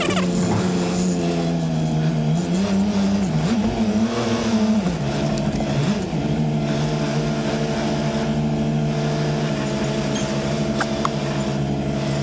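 Semi-truck diesel engine running, its pitch rising and wavering for a couple of seconds a few seconds in, then settling to a steady run.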